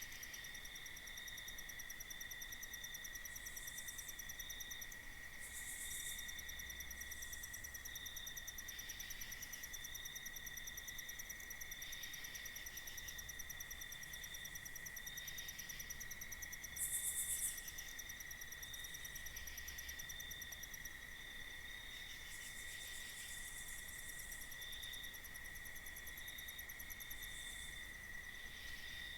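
Night chorus of crickets: a steady, high-pitched trill. About seventeen seconds in comes a brief, louder high hiss.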